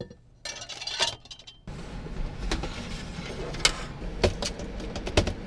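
Scattered clicks, knocks and light clatter of things being put away inside a camper van, over a steady low hum that starts about a second and a half in.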